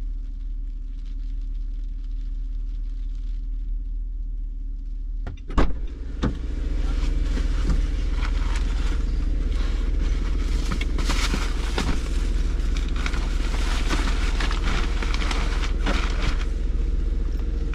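A car running steadily. About five and a half seconds in come two sharp knocks, and then the running noise becomes louder and fuller.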